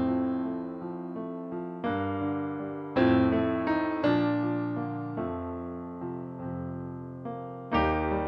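Solo piano playing a slow piece, chords struck about every second or so and left to ring and fade.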